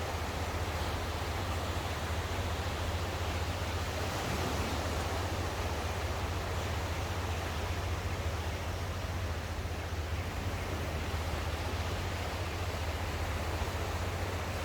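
Ocean waves washing on the shore, a steady rush with a low rumble underneath.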